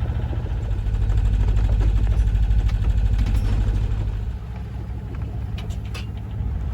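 Small sailboat's auxiliary engine running steadily at motoring speed, a rapid low throb that eases off about four seconds in.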